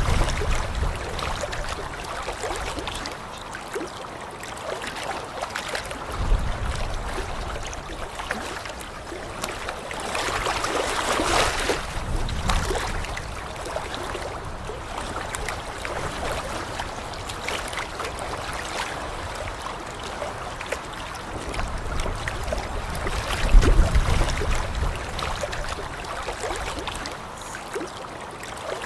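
Lake water lapping and trickling at the shore, a steady wash with a swell about a third of the way in and a few low bumps.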